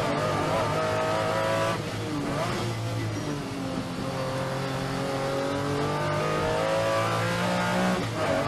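Lamborghini Diablo's V12 engine pulling under acceleration, its pitch climbing and settling. There are short breaks in the engine note about two seconds in and again near the end.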